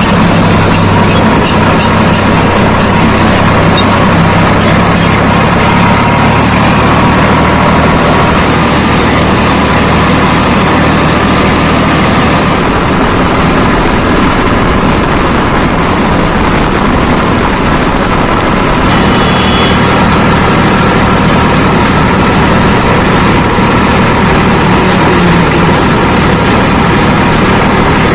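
Swaraj 855 FE tractor's diesel engine running steadily while driving a rotavator, its note shifting a few times.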